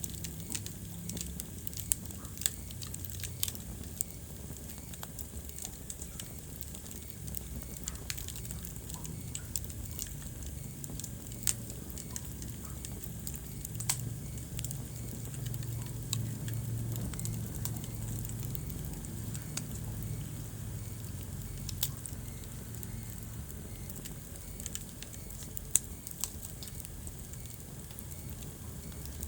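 Wood fire crackling in a fireplace: irregular sharp pops and snaps, a few louder ones, over a low steady rumble of the flames.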